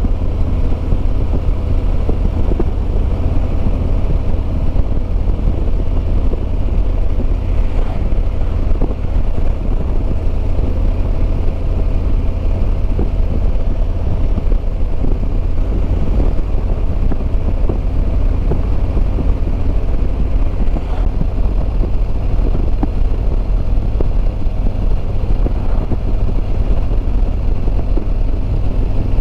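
2021 Harley-Davidson Road Glide Limited's Milwaukee-Eight 114 V-twin running steadily at cruising speed, with wind rush over it. A small change in the engine note comes about two-thirds of the way through.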